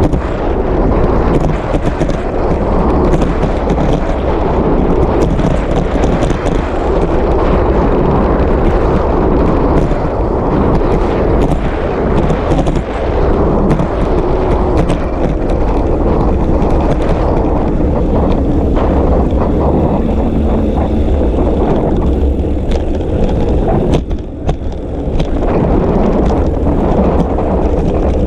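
Wind buffeting a GoPro's microphone while cycling, with steady road rumble and scattered knocks and rattles from the bike. It eases briefly about 24 seconds in.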